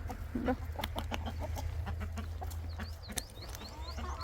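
Hens clucking in short irregular calls, with a run of quick high chirps about three seconds in.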